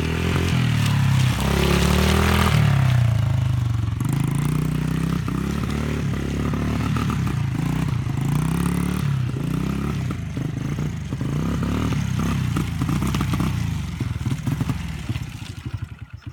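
Motorcycle engine revving up and down repeatedly as it is ridden, loudest in the first few seconds, and fading away near the end.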